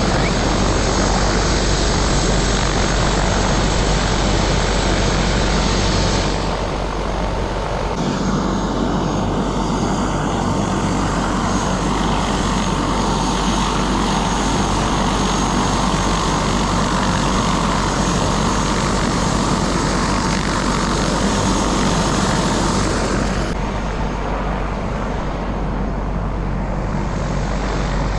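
Helicopter rotor and engine running steadily, a loud continuous drone with a constant low hum. Its higher tones shift abruptly a few times.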